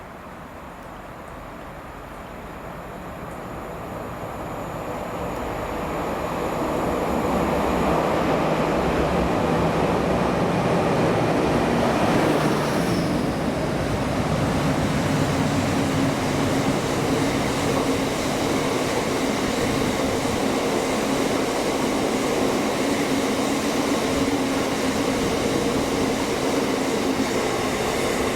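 A train approaching and passing close by: its rumble builds over the first seven seconds or so, then runs steady and loud with a constant hum.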